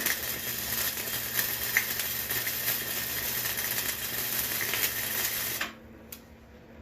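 Electric arc welder laying a weld bead on steel: a steady crackling sizzle that cuts off about five and a half seconds in.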